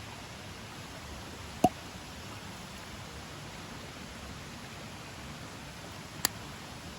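Wood fire burning with a steady hiss, broken by two sharp pops, the louder one about one and a half seconds in and the other near the end.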